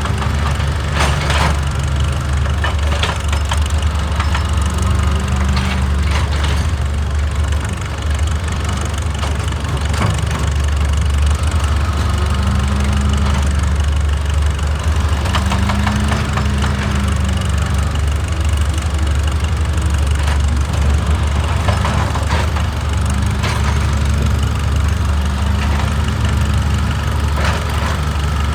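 Excavator's diesel engine running steadily, with a tone that rises and falls every few seconds as the machine works, and scattered sharp knocks and clanks.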